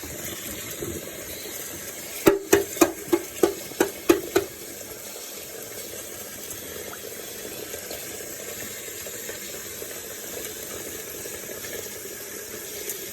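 Cold tap water running steadily into a kitchen sink. A quick run of about eight clinks and knocks comes about two seconds in.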